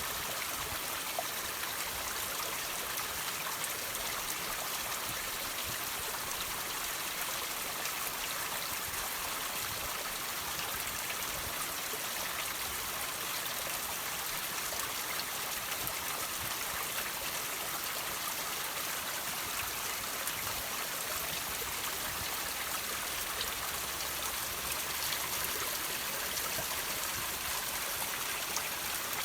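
Water droplets dripping from rocks over a steady trickle of running water, with many small patters of drops on a continuous high hiss.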